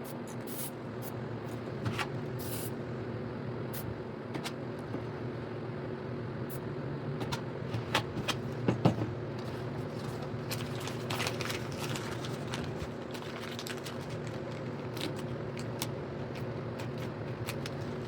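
Aerosol spray paint cans hissing in short bursts over a steady low hum, with a few sharp clicks and knocks about eight to nine seconds in.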